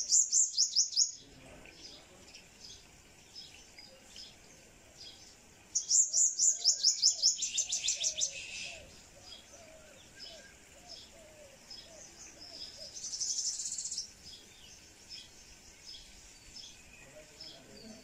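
Small birds chirping in a tree, with a fast run of loud, high chirps at the start and again from about six to eight and a half seconds in. A short buzzy trill comes around thirteen seconds in, and softer chirps repeat in between.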